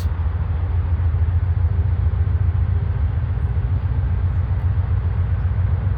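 Diesel freight locomotive engine running with a steady low rumble, beginning to throttle up a little.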